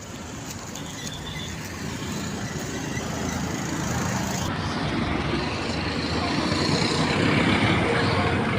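Road traffic noise, with a vehicle's sound growing steadily louder.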